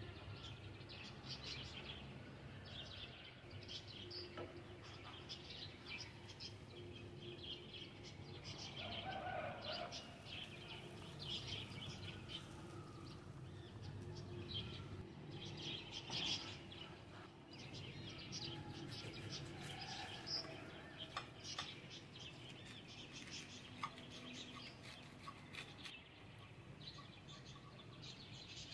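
Birds chirping in short, repeated calls, faint, over a low steady hum.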